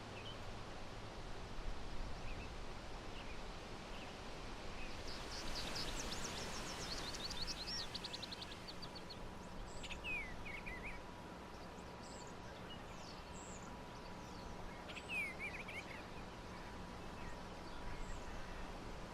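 Northern mockingbird singing over a steady outdoor hiss: a rapid run of short rising notes, then brief phrases of quick falling notes.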